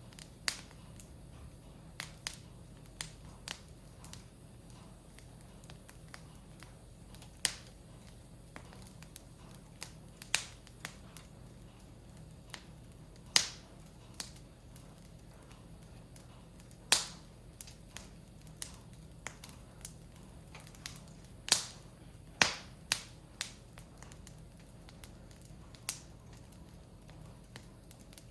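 Wood fire crackling in a Picogrill fire pit: irregular sharp pops and snaps from the burning firewood, some much louder than the rest.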